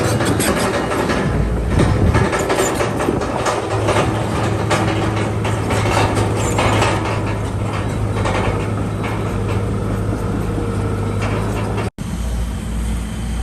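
Bulldozer's diesel engine running steadily under load, with the metal clatter of its steel tracks. The sound drops out for an instant near the end.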